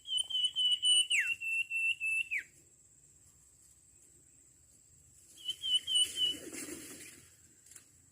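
Common iora (sirtu) whistling: a fast run of about a dozen repeated high whistled notes that ends in two quick downward slurs. A shorter run of the same notes follows a few seconds later, together with a brief rustle.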